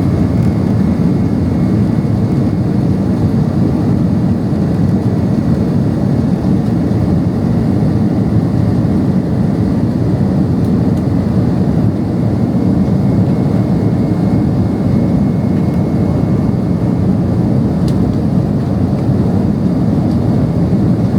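Steady cabin noise of a Boeing 767-300ER in its climb: the jet engines at climb power and rushing airflow make a low, even rumble. A faint high whine sits over it and fades out near the end.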